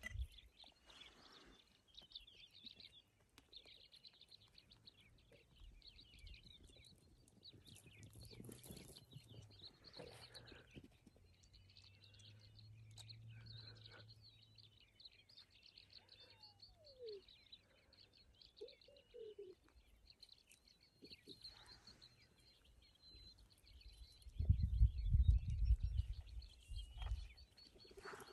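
Small birds chirping continuously in many short, high notes. Low rumbling thumps on the microphone come in briefly near the end and are the loudest part.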